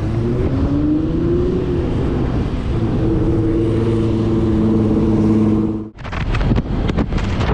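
2018 Honda PCX150 scooter's single-cylinder engine rising in pitch as it accelerates, then holding a steady note, under heavy wind rumble on the microphone. About six seconds in the sound drops out for a moment and gives way to gusty wind noise.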